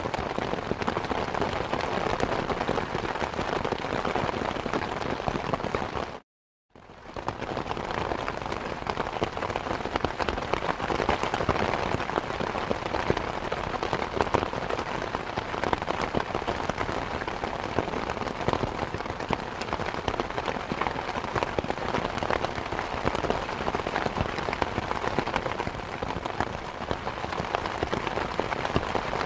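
Steady, dense rain pattering on surfaces, an even hiss of many small drops. About six seconds in it cuts out to silence for about half a second, then fades back in.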